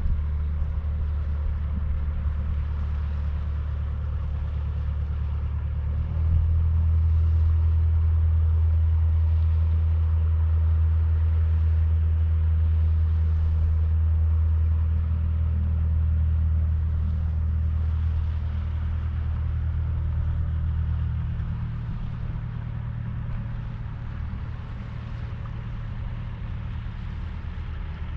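A small ferry boat's motor running steadily with a deep, low hum. It gets louder about six seconds in and eases off again past the twenty-second mark, as if the throttle were opened and then backed off.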